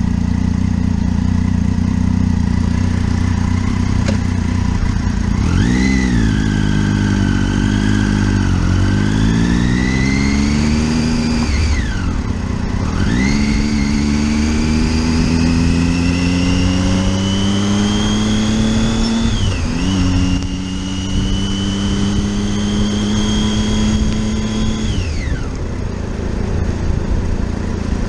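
Motorcycle engine running steadily, then accelerating about five seconds in, its pitch climbing through the gears with two upshifts before it eases off near the end, over steady wind and road noise.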